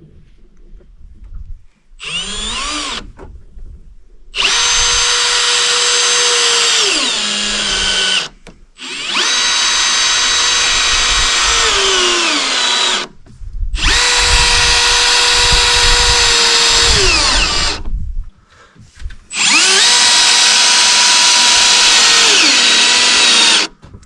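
Drill driving screws into deck boards: a short run, then four long runs of a steady motor whine, each winding down in pitch at its end.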